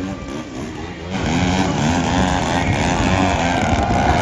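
Monster truck engine revving up and down, getting louder about a second in, as the truck does donuts.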